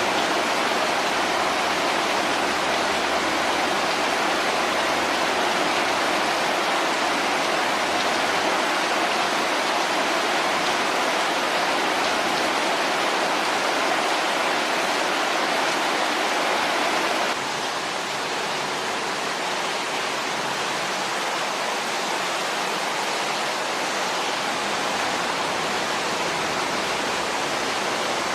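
Heavy rain pouring down in a steady hiss, a little quieter from about seventeen seconds in.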